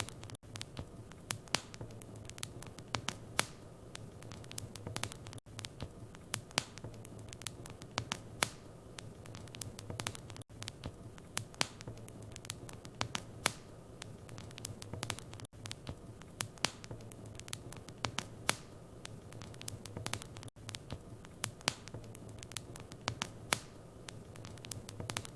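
Wood fire in a fireplace crackling: irregular sharp pops and snaps, several a second, over a low steady hum, with a brief dip in the sound about every five seconds.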